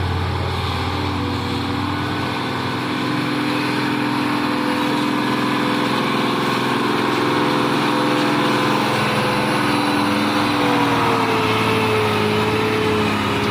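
Diesel engine of a heavy truck, a Hino 280 JD, running steadily under load as it works along the rough road, its pitch drifting slightly in the second half.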